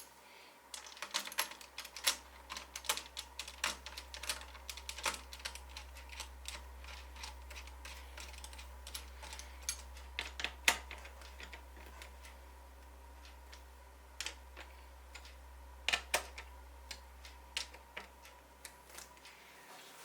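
Irregular run of small sharp clicks and taps, densest in the first half, with a few louder snaps about ten and sixteen seconds in, over a steady low hum that stops just before the end.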